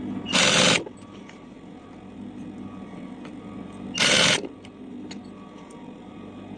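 Two short, loud bursts of hiss, about three and a half seconds apart, from an upholstery air tool, over a steady low machine hum.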